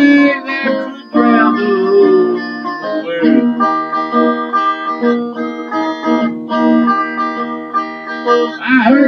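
Fender Roadhouse Stratocaster electric guitar playing an instrumental passage, with some notes sliding in pitch in the first couple of seconds and held, ringing notes after.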